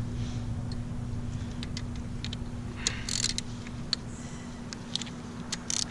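Metal hand tools clicking and clinking against engine parts while a piston and rod come out of the block, with two short scrapes, one about halfway and one near the end. A steady low hum runs underneath.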